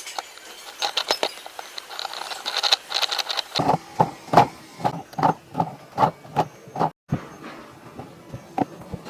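A run of knocks and clicks: light, quick clicking at first, then heavier knocks at about two to three a second from about a third of the way in, growing sparser near the end.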